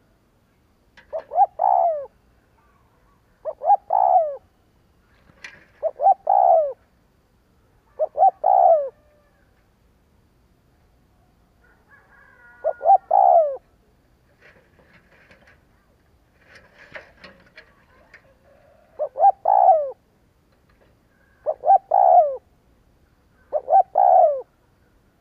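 Spotted dove cooing: eight short phrases of a few quick, low coos each, coming about every two seconds. A longer pause in the middle holds only faint scratchy chirps.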